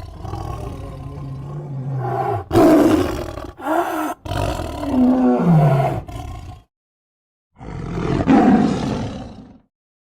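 Big-cat roars and growls in a run of separate calls, several sliding down in pitch as they fade. After a short silence, one more roar follows.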